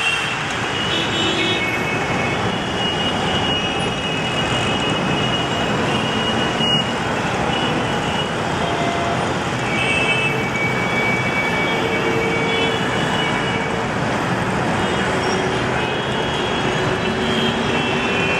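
Road traffic in the rain: a steady, dense hiss of vehicles on a wet road, with short high tones coming and going throughout.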